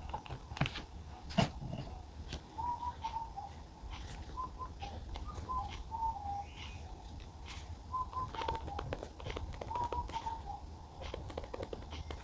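Scattered clicks and taps of desk work with pen and paper, the two loudest in the first two seconds, over a steady low hum. Short chirping notes come in small clusters throughout.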